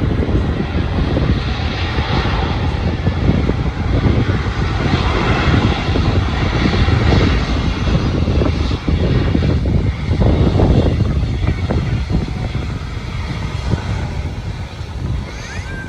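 Loud jet engine noise from a Vietravel Airlines airliner: a dense, rumbling roar that wavers in strength and eases a little near the end.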